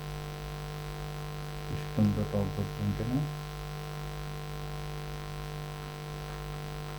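Steady electrical mains hum on the recording, one unchanging low drone with many overtones, under a brief spoken phrase about two seconds in.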